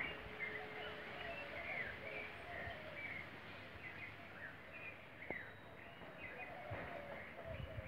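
Several birds chirping and calling in short, quick notes over a steady background hiss.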